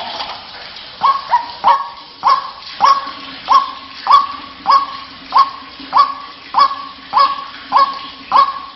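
White-breasted waterhen (ruak-ruak) calling: a long, even series of short, clipped calls, each a sharp note settling onto one pitch, repeated about one and a half times a second.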